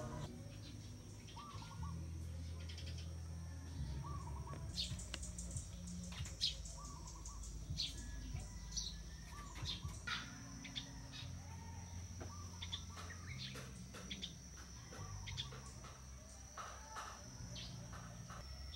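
Birds chirping and calling in short scattered notes, over a steady high-pitched buzz.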